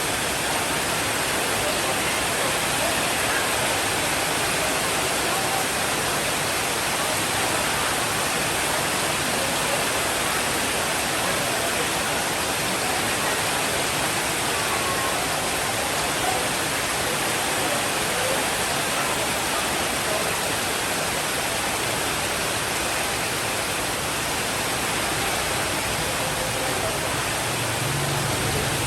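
Steady rainfall making an even, unbroken hiss.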